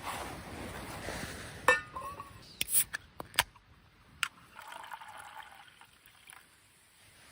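A few sharp clinks and knocks, the first ringing briefly, after a hiss that fades about two seconds in.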